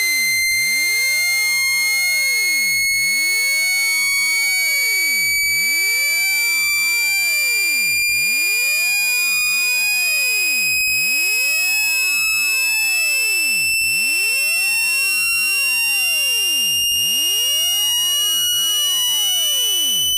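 Phone speaker-cleaning tone: one continuous, loud, buzzy electronic tone that rises slowly and steadily in pitch, played at full volume to vibrate water droplets and dust out of a phone's speaker grille.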